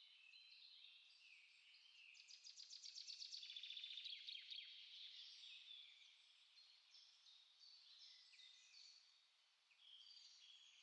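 Small songbirds singing, quiet and high-pitched, a dense mix of short chirps and whistled notes from several birds. A fast rattling trill rises to the loudest point about four seconds in, then fades back into the chirping.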